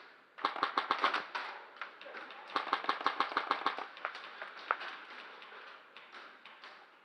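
Airsoft guns firing in two rapid bursts of sharp clicks, about ten shots a second, with scattered single clicks after.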